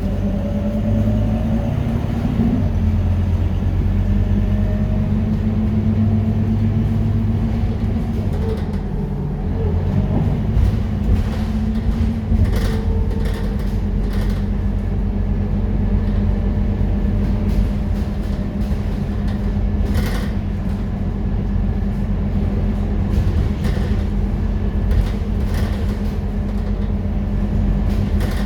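Scania K230UB city bus engine, a Euro 4 diesel, running steadily with its note shifting a few times. A few short rattles or clicks sound over it, one about twelve seconds in and one about twenty seconds in.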